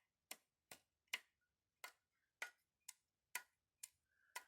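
Light sharp metallic clicks, about two a second, from the pistons of a disassembled Toyota Prius 20 engine being rocked in their cylinders: the pistons have play in the bores, the cause of this oil-burning engine's piston knock.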